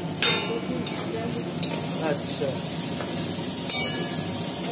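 Cauliflower florets sizzling as they fry in a metal kadai, stirred with a metal spatula that scrapes and clinks against the pan. A sharp metal clink sounds just after the start.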